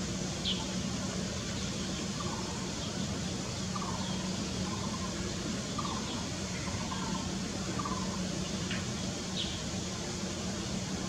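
Steady outdoor background noise with a constant low hum, and faint short bird chirps every second or two.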